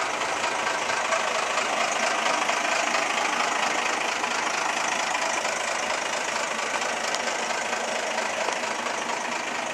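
Mercedes 4x4 fire engine's diesel engine idling steadily.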